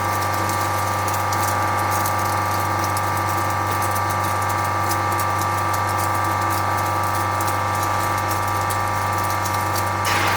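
Flake ice machine with a 25 HP piston compressor running: a steady hum made of several fixed tones, with a light crackle above it. A short rushing noise comes near the end.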